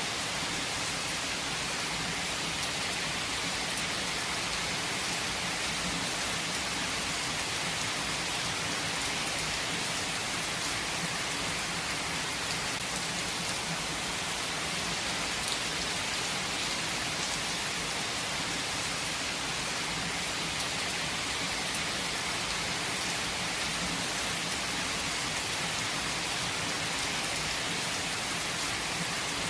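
Steady rain falling, a constant even hiss of many drops with scattered faint drop ticks.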